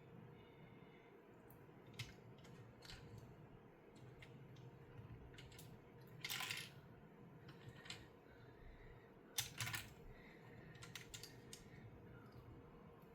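Scattered light clicks of small plastic LEGO pieces being handled and pressed together, with a short rattle about six seconds in and a couple of sharper clicks just before ten seconds.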